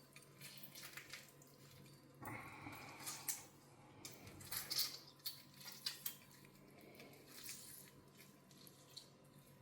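Faint kitchen handling: a halved lemon squeezed by hand with a knife stuck in it, giving small squelches and drips, with a few light clicks of utensils and bowl, loudest around the middle.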